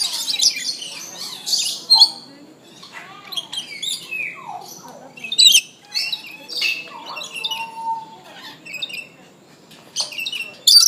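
A mix of birds calling over one another: harsh squawks and chirps, many of the calls sliding up or down in pitch, with a few loud shrieks standing out.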